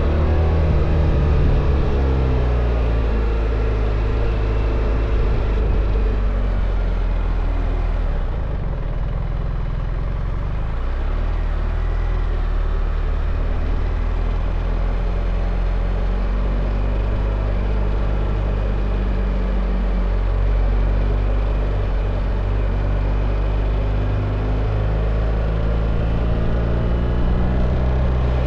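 BMW R1300 GS boxer-twin engine running under way, its note shifting up and down a few times with the throttle, over a steady rush of wind.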